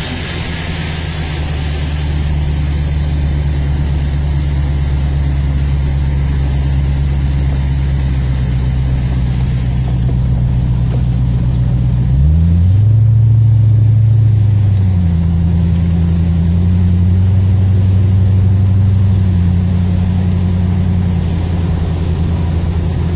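C4 Corvette's V8 heard from inside the cabin, running steadily at low revs, with revs rising sharply about twelve seconds in and a few smaller changes in pitch after. A hiss of tyres on the wet track is heard over the engine in the first several seconds.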